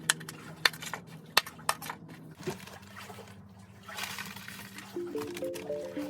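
Sharp clicks and crackles of a styrofoam egg carton being pierced to make drainage holes, several in the first two and a half seconds and fewer after. A light stepping melody of background music comes in about five seconds in.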